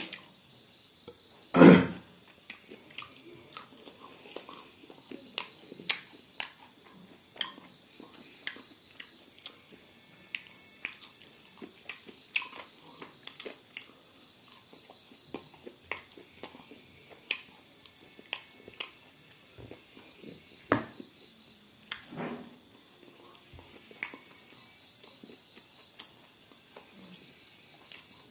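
Close-miked eating of fried chicken: chewing and biting with many short wet smacks and clicks. There is one loud thump about two seconds in, and a faint steady high whine underneath.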